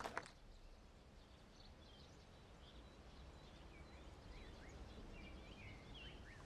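Quiet outdoor ambience with faint bird chirps, short notes sliding up and down scattered through it. Applause cuts off right at the start.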